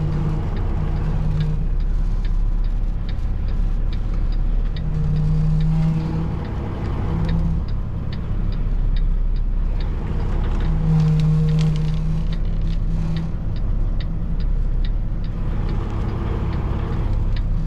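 Semi-truck diesel engine running at low speed while the rig is backed up, heard from inside the cab, with a low hum that swells and drops away several times and a light regular clicking about twice a second.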